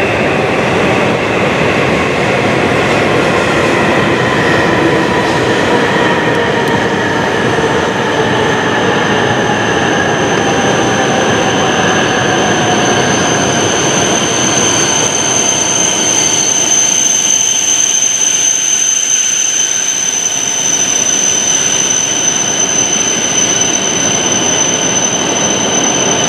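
E7 series Shinkansen train running in and slowing to a stop at the station, its motor whine falling steadily in pitch as it slows. A steady high squeal joins about seven seconds in and carries on after the lower running noise eases.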